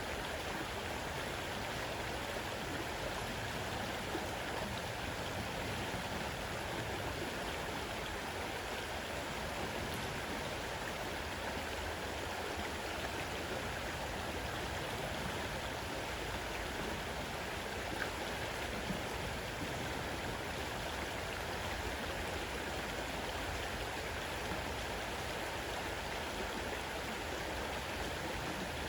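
Fast-running forest river rushing steadily.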